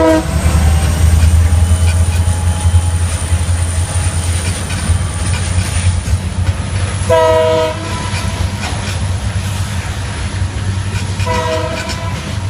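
A diesel-hauled train runs close by with a heavy steady rumble and wheel clatter. Its locomotive's multi-note air horn sounds short blasts twice, about seven and eleven seconds in, and the end of an earlier blast is heard at the very start.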